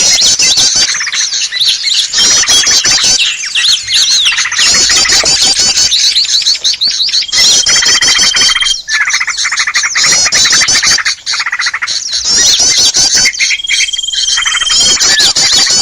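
Bird-lure recording of many small songbirds chirping and squawking together in a dense, noisy chorus, with two long held whistle notes standing out, about halfway through and again near the end.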